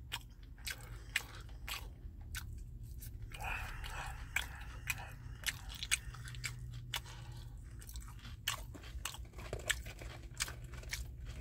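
A person chewing crunchy food, with irregular crunches and wet mouth clicks.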